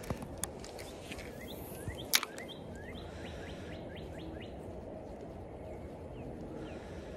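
A small bird calling in a quick series of short, sliding chirps over steady outdoor background noise, with a few light clicks at the start and one sharp, loud click about two seconds in.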